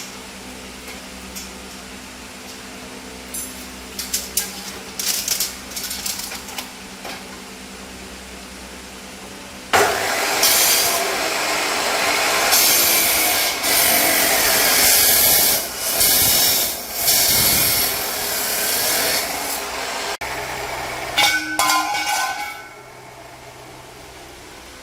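Scattered clicks and scrapes, then a power tool starts abruptly and runs loudly for about twelve seconds, dipping several times as it works against the material, before stopping.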